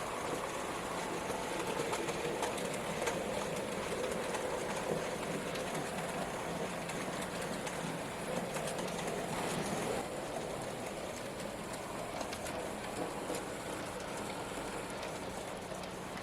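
N gauge model train running round the layout: a steady whir from the locomotive's small motor and the running of wheels on the track, with faint light ticks, a little quieter after about ten seconds.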